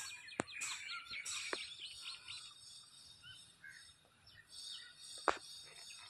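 A bird chirping in a quick run of short, high calls for about the first second, then fainter calls, over a quiet outdoor background. A few sharp clicks, the loudest about five seconds in.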